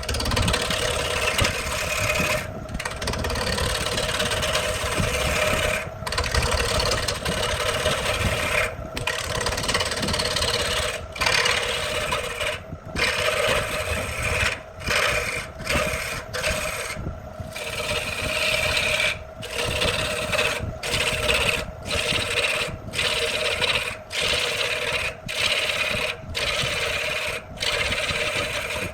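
Power tool running and working wood: a steady motor hum under a scraping, rasping noise, broken by short gaps every second or two.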